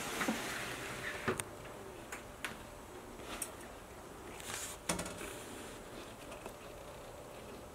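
A few scattered light clicks and taps, a second or more apart, over a faint steady hiss; the loudest tap comes about five seconds in.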